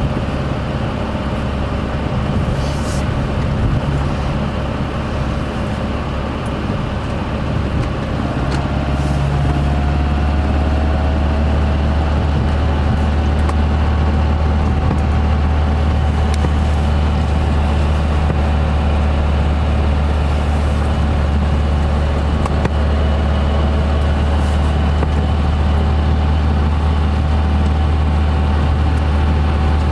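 BMW 1600-2's 1.6-litre four-cylinder engine running as the car drives: a steady low drone with a thin whine that rises a little about nine seconds in, then holds steady.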